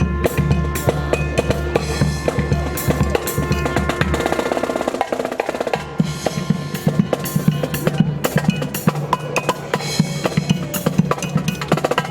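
Marching band drums, snare and bass drum, playing a rhythmic cadence with dense, rapid strikes.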